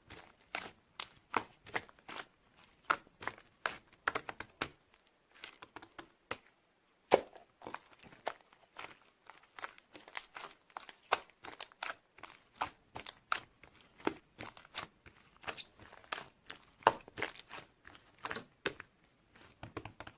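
Clear blue slime being squished and worked by hand, giving a run of irregular sticky pops and clicks, one to three a second.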